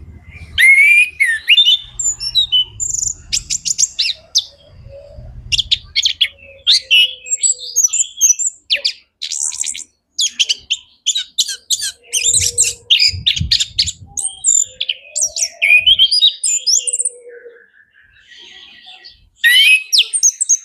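Male orange-headed thrush singing a loud, fast, varied song of chirps, whistles and trills, with a brief lull near the end before it resumes.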